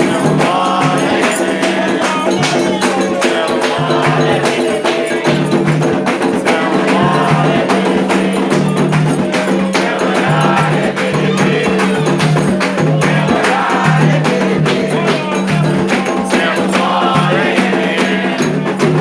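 Candomblé ritual music: atabaque hand drums beating a steady rhythm with a shaken or struck metal percussion part, and voices singing a chant over it.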